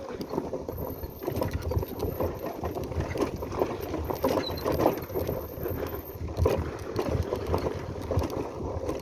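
Motorcycle running at low speed on a rough track, its steady rumble broken by irregular knocks and rattles.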